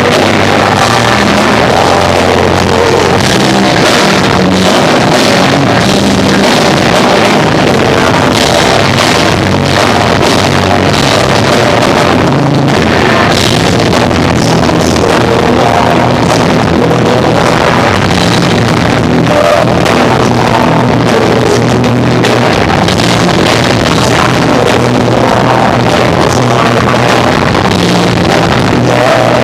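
Live rock band of electric guitar, bass and drums playing, recorded loud and distorted in a poor-quality live recording.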